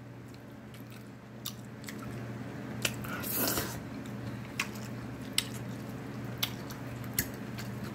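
Close-up mouth sounds of chewing a mouthful of lo mein noodles: short wet lip-smacking clicks spaced out every second or so, with one longer wet sucking sound a little after three seconds in.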